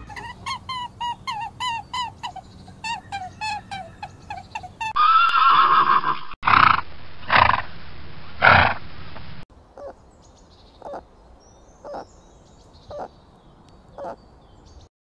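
A series of animal calls: first a quick run of short, falling high-pitched calls, then a horse whinnying and three loud breathy blasts, then faint short squeaks about once a second, which fit the guinea pig on screen.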